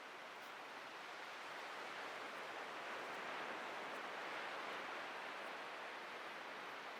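Atlantic ocean surf: a steady wash of breaking waves that swells gently in the first few seconds and eases slightly toward the end.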